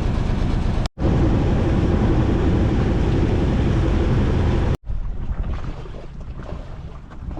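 A boat under way with loud rushing wind on the microphone over the sound of water. It is broken by two sudden cuts, about a second in and near five seconds. After the second cut it is quieter, with light splashing of water.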